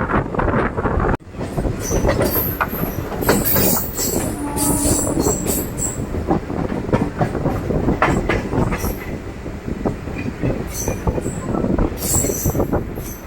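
DEMU train running along the track: steady wheel and rail rumble with frequent clicks over the rail joints, and bursts of high wheel squeal a couple of seconds in and again near the end. There is a brief sudden break about a second in.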